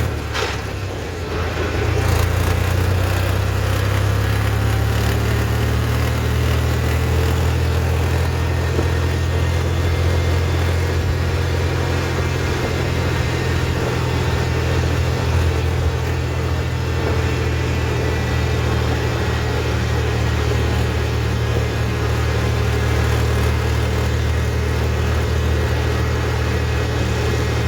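Tractor's diesel engine running with a steady low drone, dipping briefly about a second in.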